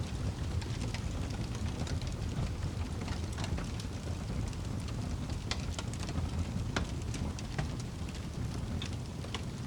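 Wood fire burning in a fireplace: a steady low rumble from the flames, with frequent sharp crackles and pops from the burning logs.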